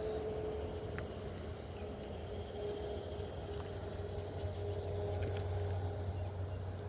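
Steady low mechanical hum with a faint held tone above it, like a distant engine running.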